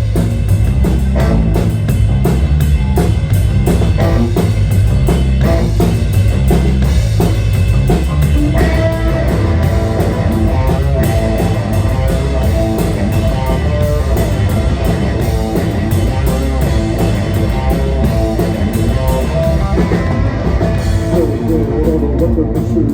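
Live rock band playing an instrumental passage: drum kit with electric guitar, a sustained guitar line joining about eight or nine seconds in.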